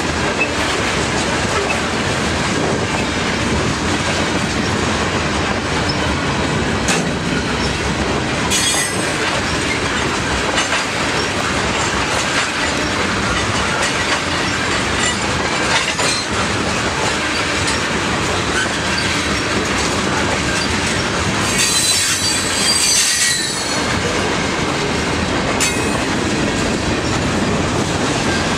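Freight train cars, covered hoppers and then tank cars, rolling past close by with a steady rumble and wheel clatter over the rails. A high-pitched wheel squeal flares briefly about a third of the way through and again about three quarters of the way through.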